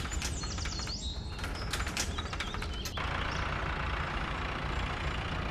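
Cartoon vehicle engine sound effect, a steady low rumble. Over the first three seconds a clatter of sharp clicks and short high chirps plays over it, and after that a steady hiss joins the rumble.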